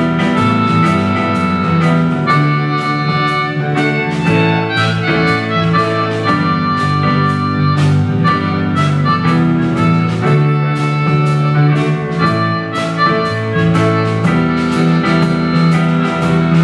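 Accordion playing an instrumental passage of held chords that change every second or two, over a steady rhythmic pulse.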